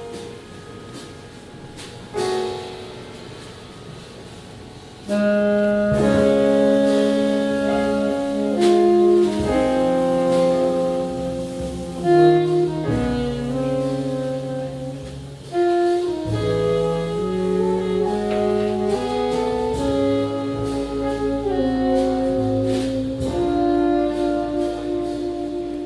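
Small jazz group playing live, with a saxophone carrying the melody in long held notes over bass. The first few seconds are quiet and sparse, then the full band comes in much louder about five seconds in.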